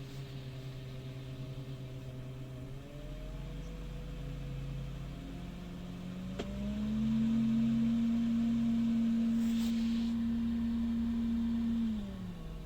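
1999 Honda Accord engine running with a steady whine. About halfway through the engine speed goes up and a louder whine rises and holds for about five seconds, then falls back as the revs drop near the end. The source of the whine is unknown: the alternator has tested good.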